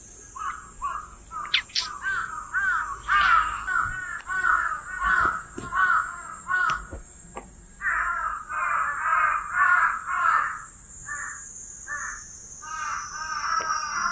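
Birds calling in long runs of short, harsh, quickly repeated notes, about two or three a second, breaking off briefly about seven seconds in and again near eleven seconds. A steady high-pitched drone runs underneath.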